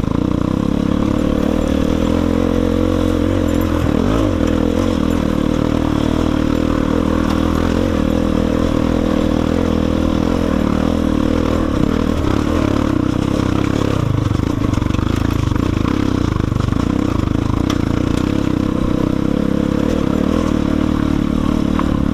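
Dirt bike engine running at fairly low revs, the pitch rising and falling a little as the throttle changes.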